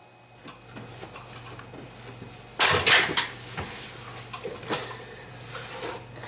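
Hard objects clattering and knocking as they are handled, with a loud burst of clatter a little past halfway and scattered knocks after it, over a low steady hum.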